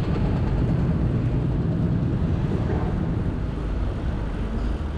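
Steady low rumble of wind and road noise from riding a bike.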